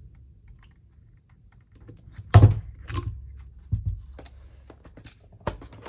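A few sharp clicks and knocks of a plastic parts box and the small craft pieces inside it being handled, the loudest about two and a half seconds in.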